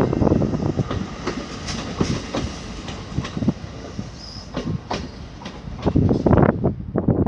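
Commuter train cars rolling past, wheels clicking and knocking over the rail joints, with a steady rail rumble. The sound eases in the middle and grows loud again near the end.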